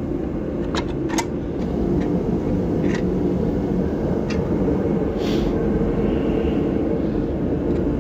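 Steady low mechanical drone, with a few light metallic clicks as a wheel hub assembly is worked onto the CV axle splines.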